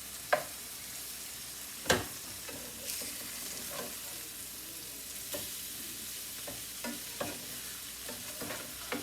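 Tilapia fillets frying in butter in a pan, a steady sizzle, with a few sharp clicks and knocks, the loudest about two seconds in.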